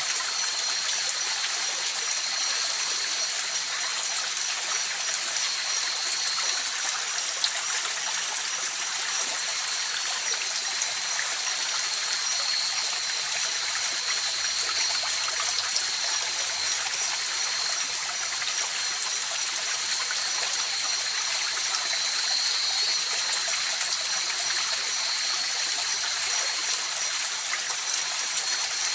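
A river flowing steadily, its rushing hiss even throughout, with continuous high-pitched tones from night insects over it.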